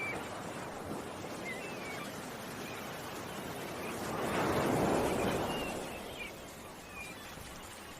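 Ocean waves washing ashore, one swelling up and falling away about midway, with faint short bird chirps scattered throughout.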